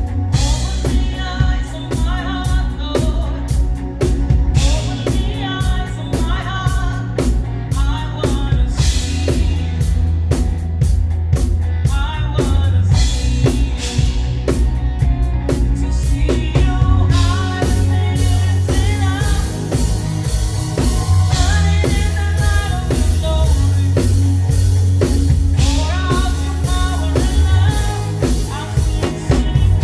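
Live praise music with a drum kit playing a steady, busy beat under bass and singing.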